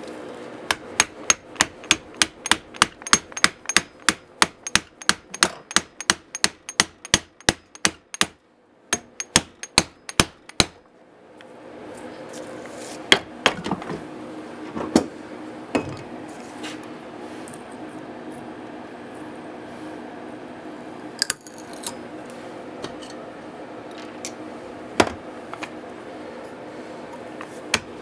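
Rapid, even hammer blows, about three to four a second, for the first eight seconds, then a short run of a few more. After that only occasional single knocks over a steady hum.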